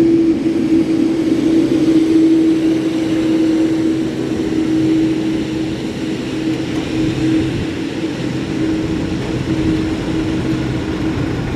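Airliner jet engines running: a steady drone with an even hum, easing slightly over the first few seconds.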